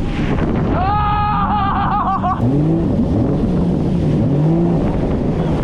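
1800cc jet ski engine running under wind rush on the microphone, its pitch rising and falling with the throttle several times in the second half. About a second in, a high wavering tone sounds over it for about a second and a half.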